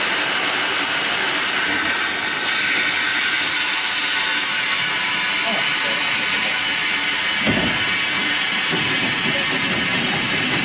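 Steam locomotive venting steam in a loud, steady hiss, with one short low thud about seven and a half seconds in.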